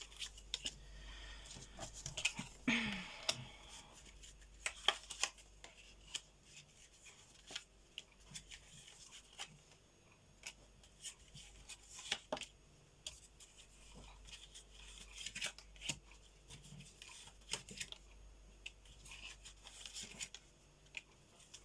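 Tarot cards being handled and laid out on a table: scattered soft clicks, taps and short rustles, with a longer rustle about three seconds in.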